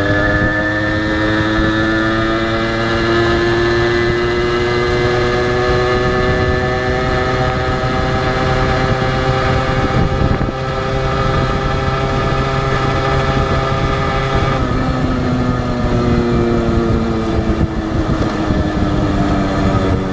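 Honda H100S two-stroke single-cylinder motorcycle engine running under way, its pitch slowly climbing, then dropping suddenly about fifteen seconds in and climbing again near the end.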